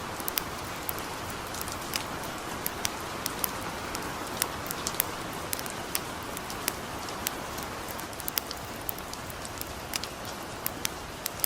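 Steady hiss of gentle rain mixed with a campfire's irregular sharp crackles and pops.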